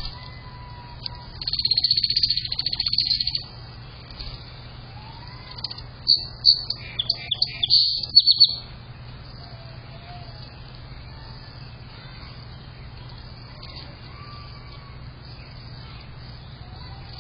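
Songbirds singing: a loud, high trill lasting about two seconds, then a quick run of sharp high notes a few seconds later, with faint whistled calls from farther birds in between.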